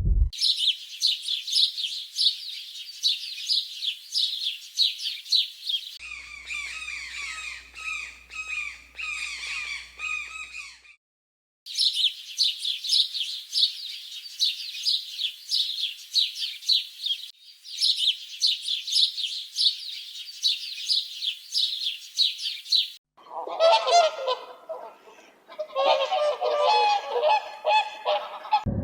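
High-pitched animal calls repeated in rapid series, in several short stretches with abrupt breaks between them; near the end the calls drop lower in pitch.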